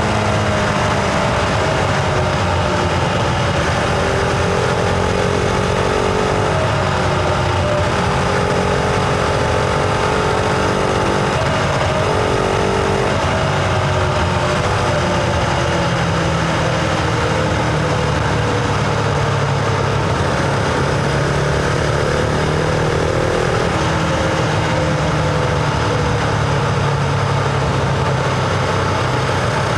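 Husqvarna Vitpilen 701's single-cylinder engine running on the move, heard from onboard. Its pitch slides down gently as the bike rolls off, shifts a few times, then settles, with steady wind rush underneath.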